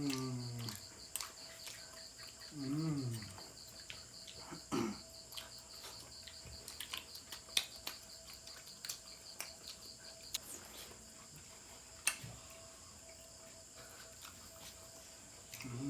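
A cricket trilling steadily, a fast pulsing high chirp that stops about ten seconds in. Scattered small clicks and taps of eating and a few brief low mumbled sounds from a person come through under it.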